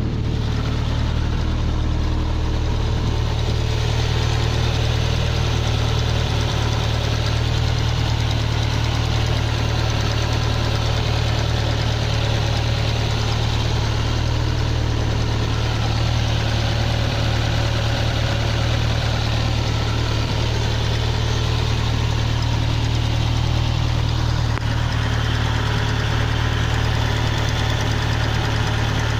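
Car engine idling steadily after a cold start, with an abnormal noise that the owner traces to the cylinder at the driver's-seat end.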